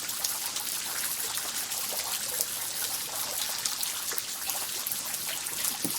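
Steady rain falling, an even hiss with small scattered drips and ticks of drops.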